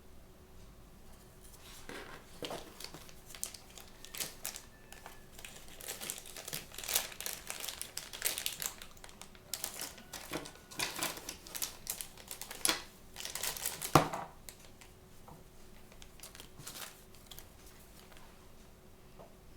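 Thin plastic or foil blind-bag packaging crinkling and tearing as it is handled and pulled open by hand, in irregular crackles. The crackling is busiest in the middle and ends in one sharp crack about two-thirds of the way through, then quieter rustling follows.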